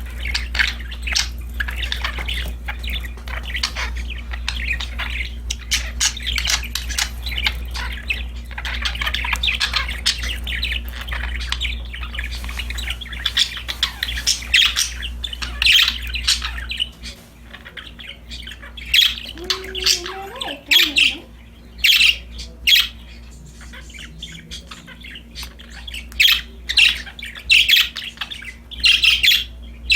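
Budgerigars chattering and chirping: a dense, continuous warbling chatter for the first half, then sparser, louder single chirps and squawks. A steady low hum underneath stops about halfway through.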